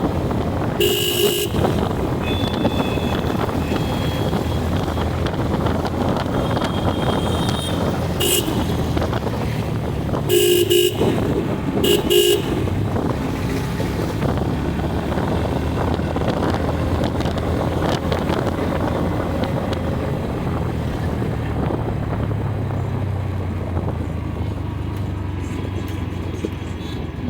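Ride on a motorbike through road traffic: steady engine and road noise, with several short vehicle horn honks in the first half.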